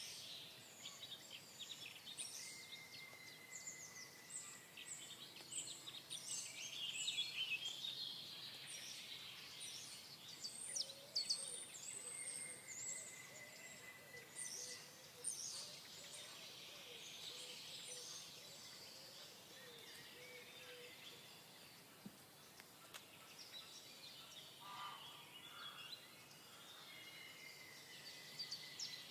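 Several birds chirping and calling, with many quick high notes, over faint background noise. A thin steady note is held for a second or two now and then.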